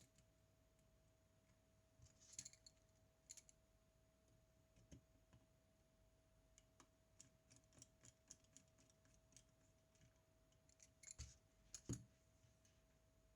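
Faint scattered clicks and light taps of small tools and metal parts being handled during camera repair, bunched a couple of seconds in, around the middle and near the end, over a faint steady tone.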